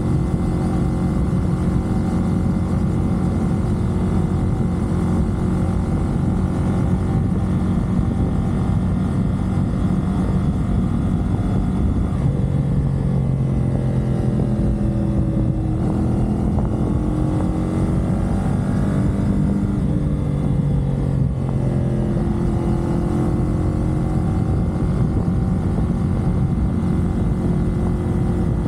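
Parallel-twin engine of a CFMoto 450SR sports bike running at expressway speed, with steady wind and road noise. Through the middle of the stretch its note slides up and down in pitch before settling again.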